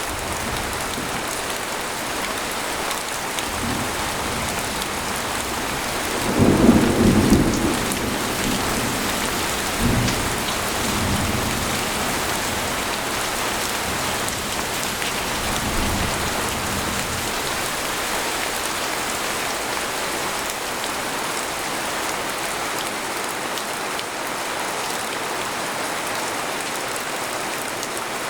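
Steady rain falling on a tent, with thunder rumbling. The rumble swells loudest about seven seconds in, followed by smaller rolls around ten and sixteen seconds.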